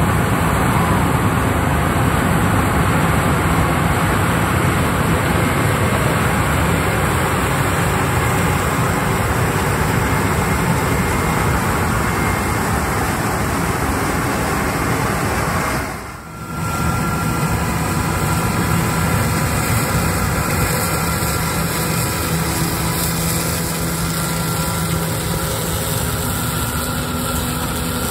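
Heavy harvesting machinery, combine harvesters and tractors pulling grain carts, running steadily through a corn field, a continuous engine drone mixed with the noise of the crop being taken in. The sound drops briefly about halfway through, then resumes as a steadier engine hum.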